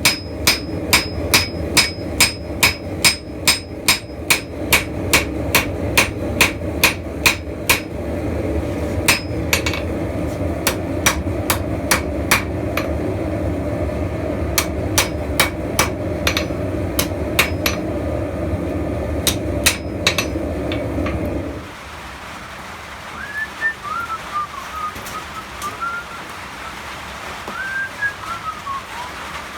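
Hammer blows on hot steel at the anvil, forging a spearhead: a fast, even run of ringing strikes, about three a second, for the first eight seconds, then more irregular blows. A steady low rumble under the hammering cuts off suddenly about 21 seconds in, leaving a quieter stretch with a few faint chirps and a last few strikes.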